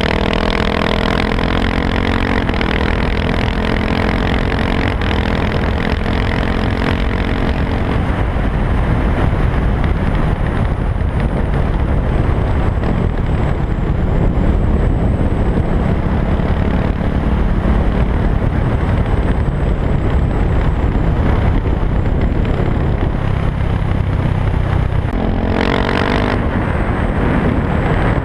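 KTM 690 SMC R single-cylinder engine, through an Arrow exhaust with the dB killer removed, under way. The engine note climbs steadily for the first several seconds, then sinks into a steady rushing noise. About 25 seconds in the revs rise sharply, with a few sharp pops near the end.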